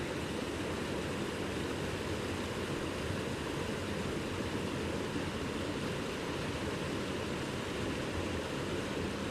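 Mountain stream water rushing over rocks: a steady, even roar with no breaks.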